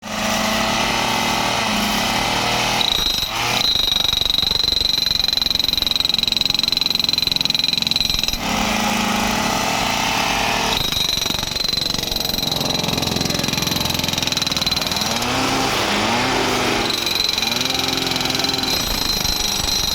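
Power ballast tampers running, hammering rapidly and steadily to pack ballast under railway sleepers, with a high steady whine that drops out briefly twice.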